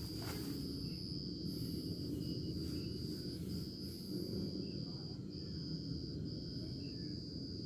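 An insect trilling on one high, steady pitch in long pulses about a second each with short breaks, over a steady low rumble.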